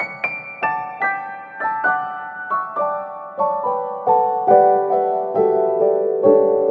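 Background piano music: single struck notes about twice a second, falling in pitch and filling out with lower notes in the second half.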